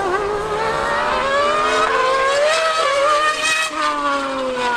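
High-revving racing engine accelerating hard in a drag race. Its pitch climbs for about three and a half seconds, then falls away near the end.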